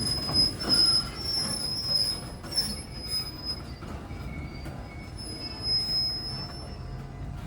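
Freight train's steel wheels squealing against the rails: a high-pitched squeal that fades and returns over the low rumble of the rolling cars.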